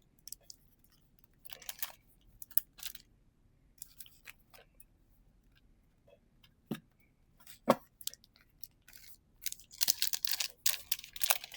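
Pokémon trading card packs and cards being handled: scattered soft taps, clicks and brief rustles of card and packaging. There are two sharper clicks about seven and eight seconds in, and a longer rustle near the end.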